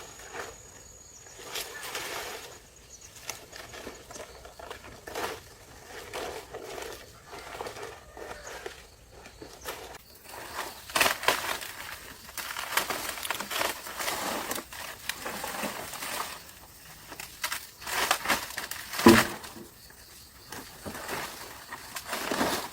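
Irregular rustling and crinkling, as of material being handled, with scattered short knocks; busier in the second half, with one sharp, loud knock about three-quarters of the way through.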